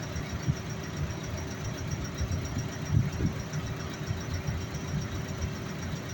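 Heavy construction machine's engine running steadily, with a low rumble and a few irregular louder knocks, about half a second in and again about three seconds in.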